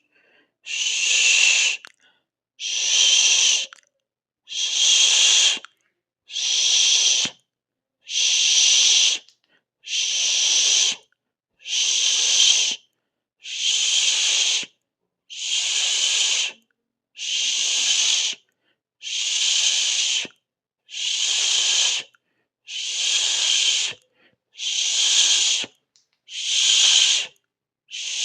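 A person hissing a long 'shh' over and over in even pulses, each about a second long, about one every second and three-quarters, with silence between.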